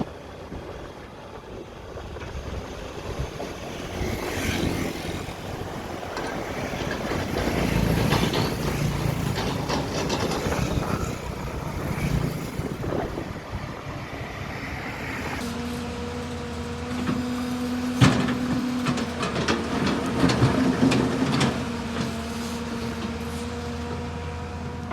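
Heavy road-work machinery running with an engine drone and sharp metallic clanks and knocks, the loudest knock about two-thirds of the way through. The drone steadies into a constant pitch about halfway through.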